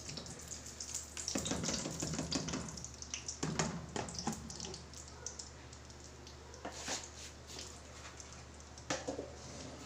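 Ghee being spooned into a kadai: a metal spoon scraping and clinking, in a few short bouts.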